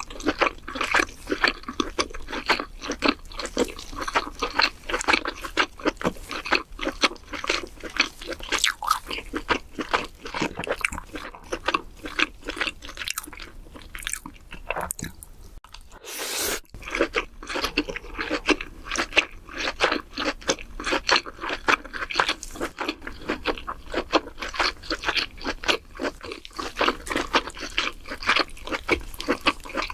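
Close-miked chewing of king crab: a rapid, continuous run of wet mouth clicks and smacks, broken by a short pause a little past halfway.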